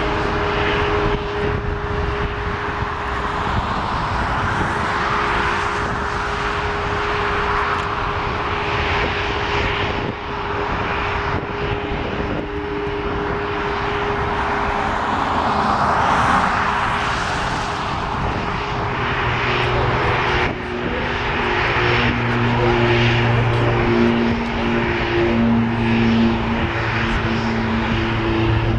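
Jet airliner engines running at an airport: a steady whooshing rumble that swells and fades, with a steady hum under it. About two-thirds of the way through, a lower, pulsing drone joins in.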